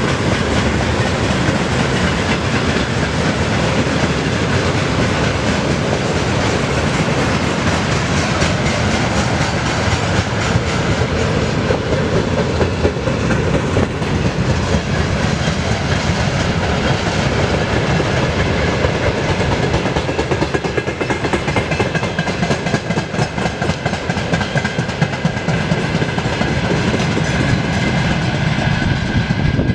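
Freight train wagons rolling past, steady and loud, their wheels clacking over the rail joints.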